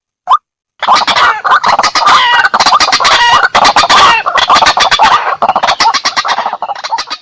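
White-breasted waterhen calling: a single rising note, then about a second in a loud, dense run of rapid harsh calls lasting about six seconds, breaking up into separate notes near the end.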